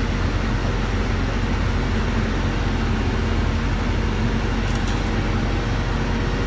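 Steady low rumble of an idling truck's diesel engine, with a steady fan-like hiss over it.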